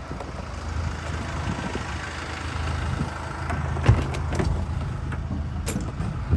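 A motor vehicle's engine running steadily, with one sharp knock about four seconds in.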